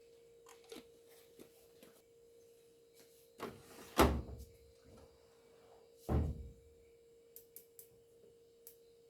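Two heavy thuds about two seconds apart, the first the louder, with a smaller knock just before and a few light clicks, over a faint steady hum.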